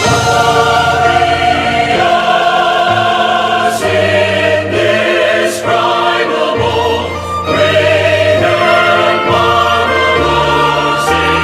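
Choral worship music: a choir singing long held chords over an orchestral accompaniment.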